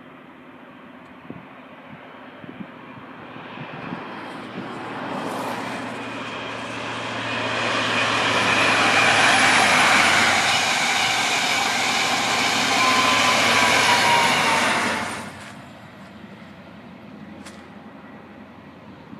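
High Speed Train (InterCity 125) with a Class 43 diesel power car passing at speed: engine and wheels on rail grow steadily louder as it approaches and stay loud for about seven seconds as it goes by, with a falling tone near the end. The sound cuts off abruptly about fifteen seconds in.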